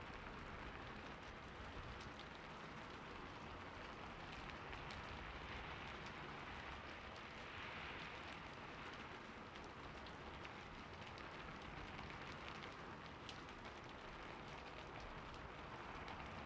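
Steady rain falling on a roof: an even hiss with many separate drops ticking through it.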